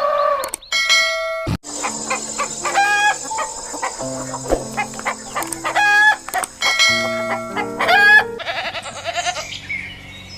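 Roosters crowing several times, with hens clucking near the end, over steady background music.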